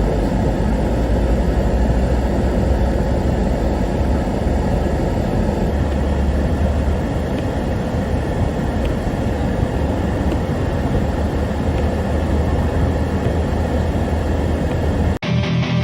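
Steady low rumble of a car under way, engine and road noise. It cuts off abruptly near the end and music with guitar begins.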